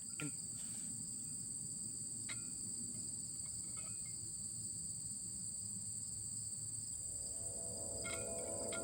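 Crickets chirring in a steady, high-pitched chorus that holds two shrill tones without a break. Soft ambient music fades in near the end.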